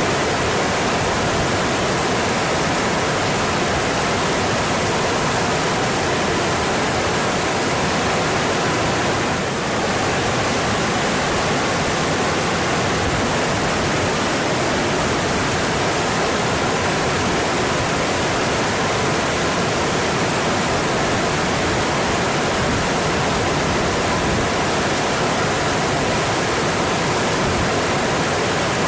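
Mountain stream flowing with a steady, even rush of water, dipping slightly for a moment about ten seconds in.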